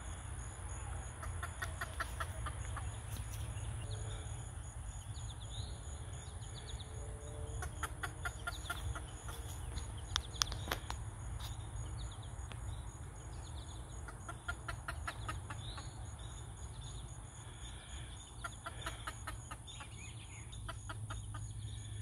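A bird giving several short runs of quick clucking notes, over a steady low rumble.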